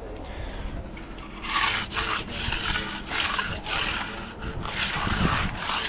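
Stiff broom being drawn across a fresh concrete slab for a textured broom finish: repeated scraping strokes, roughly two a second, starting about a second and a half in.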